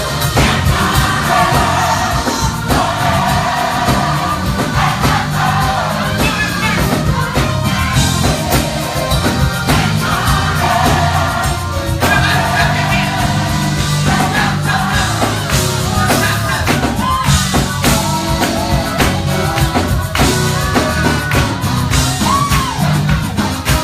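Live gospel music: a choir singing over a band with bass and drums.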